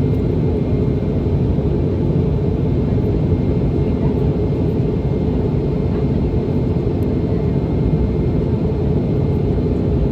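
Steady cabin noise of a Boeing 717 in flight, heard from a rear seat near its tail-mounted Rolls-Royce BR715 turbofans: a constant low rush of engine and air noise with a faint steady whine above it.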